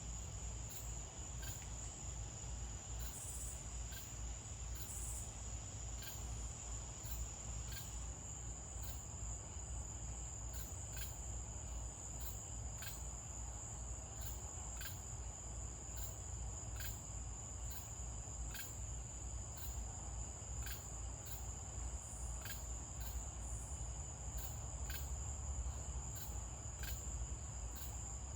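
Crickets trilling steadily in a night chorus, with a sharp click repeating about once a second over a faint low rumble.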